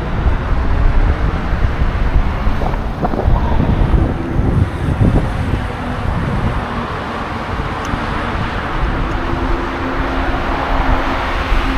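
Wind buffeting the microphone of a moving bicycle, a loud, steady rumble, with motor traffic humming alongside.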